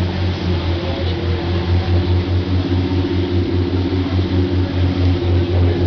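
A large engine running steadily: a low drone with a few steady higher tones above it, the drone pulsing about five times a second.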